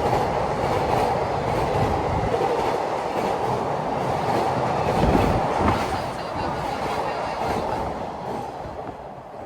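Freight train rolling past on the rails, a steady rumble of wagon wheels that fades away over the last couple of seconds as the train recedes.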